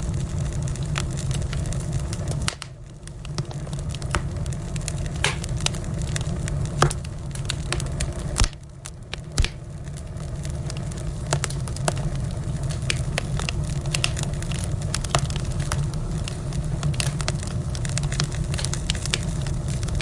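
Wood fire in a fireplace crackling and popping over a steady low roar, with a few louder pops around the middle. Twice the low roar briefly drops away for about a second.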